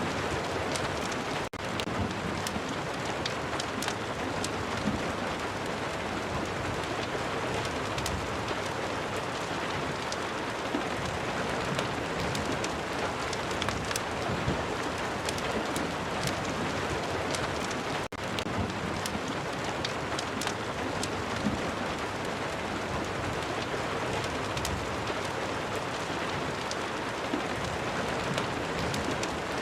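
Steady rain falling on a surface, an even hiss scattered with small sharp ticks. The sound drops out for an instant twice, about a second and a half in and again about eighteen seconds in.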